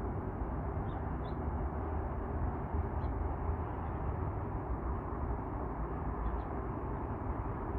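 A few faint, short bird chirps scattered over a steady low rumble of background noise.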